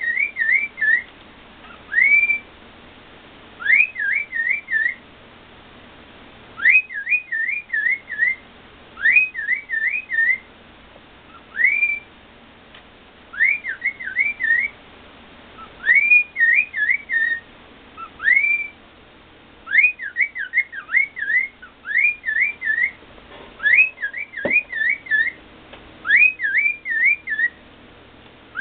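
Pet cockatiel whistling its song over and over. Each phrase is a quick rising whistle followed by a few fast wavering notes, repeated every couple of seconds.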